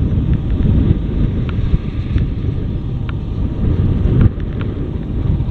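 Wind buffeting the microphone on a moving motorcycle, a loud uneven rumble with the bike's road noise beneath it.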